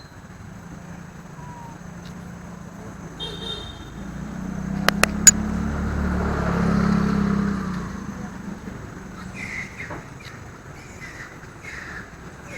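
A motor vehicle passing by: a low engine hum that swells over a few seconds and fades away, with a few sharp clicks about five seconds in.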